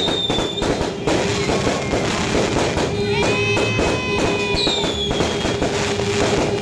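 Firework barrage with dense, rapid crackling and pops, with several short whistles falling in pitch and a few held whistling tones about halfway through, over background music.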